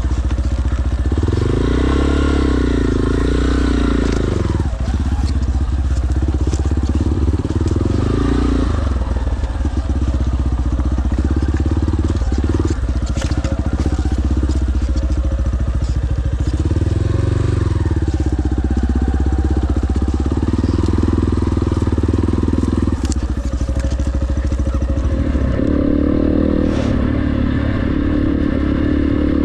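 Dirt bike engine running as it is ridden down a rough trail, its pitch rising and falling repeatedly as the throttle opens and closes, with a few sharp clicks over it.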